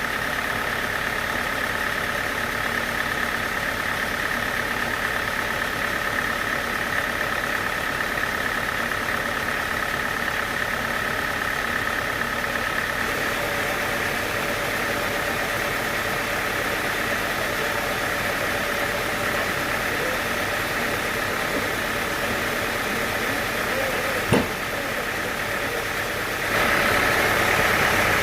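Sawmill machinery running steadily: a motor's hum with a high whine. The whine shifts about halfway through, a single sharp knock comes near the end, and the noise gets louder in the last couple of seconds.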